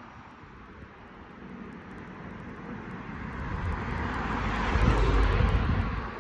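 A vehicle passing by: a rushing noise that builds for about five seconds, then fades quickly near the end.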